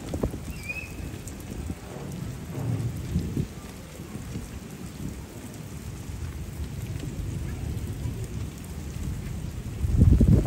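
Steady rain falling on a paved street, with low rumbles that swell and fade, the loudest near the end.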